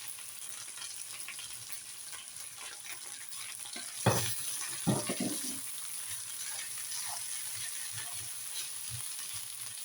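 Food sizzling steadily in a frying pan as fried onion and cooked rice go in with the chicken, with two sharp knocks against the pan about four and five seconds in.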